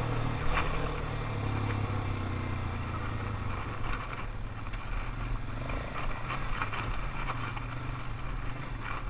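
ATV engine running steadily while riding, with scattered short knocks and rattles as the machine goes over bumps.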